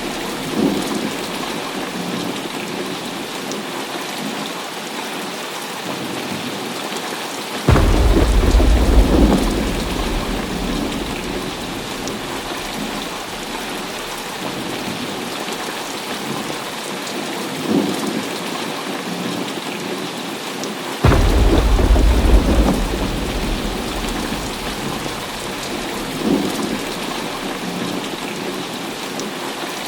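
Heavy rain falling steadily through a thunderstorm. Two sudden loud thunderclaps, about a quarter of the way in and again about two-thirds through, each rumbling away over a few seconds, with fainter rumbles of thunder in between.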